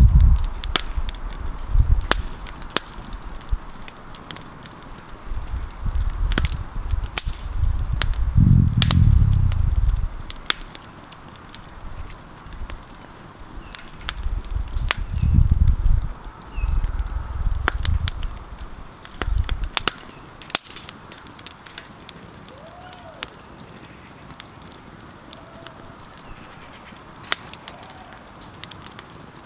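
Wood campfire crackling, with sharp pops scattered throughout and low rumbling swells several times in the first two-thirds. A few faint bird calls come near the end.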